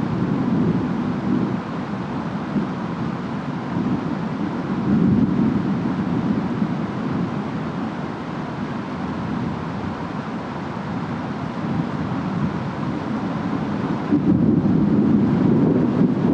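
Steady rainstorm ambience: a constant hiss of wind and rain under a low rumble that swells and eases, growing louder near the end.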